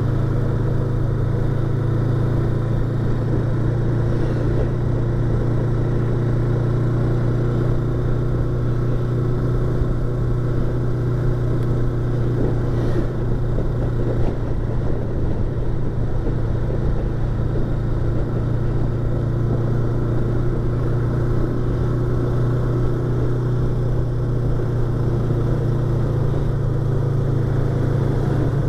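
Yamaha YZF-R25's 250 cc parallel-twin engine running at a steady speed, heard through a microphone inside the rider's helmet.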